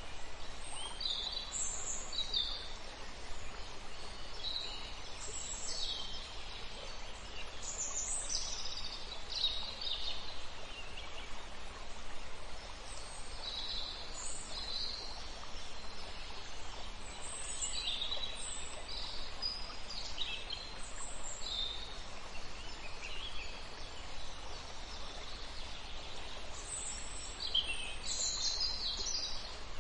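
Birds chirping: short, high calls, some falling in pitch, come every second or few over a steady background hiss.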